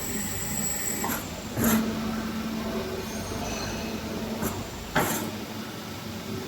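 Truck tire changer at work: a low steady hum of its motor from about a second and a half in to nearly five seconds, with short sharp hissing or clanking bursts three times.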